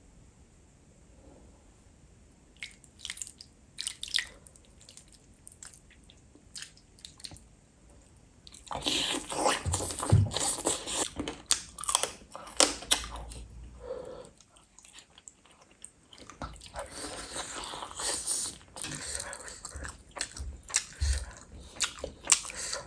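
Close-miked eating sounds: a few sparse wet clicks and smacks at first, then from about nine seconds in, dense biting, chewing and crunching of chicken drumstick and rice, with a short lull around fourteen to sixteen seconds before the chewing picks up again.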